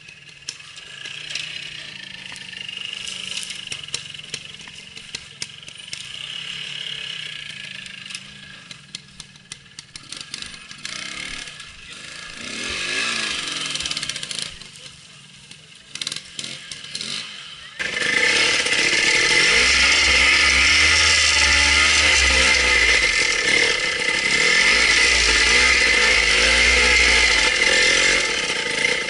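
Trial motorcycle engines revving up and down as riders tackle the section, at moderate level. About eighteen seconds in, a two-stroke trial bike close to the microphone becomes loud, revving and running on with rising and falling pitch.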